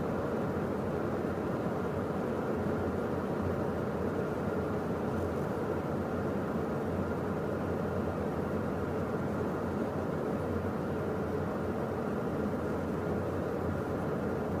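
Steady cockpit noise of a Beechcraft Premier 1A business jet in the climb, the rush of air and the jet engines' hum blending into an even drone.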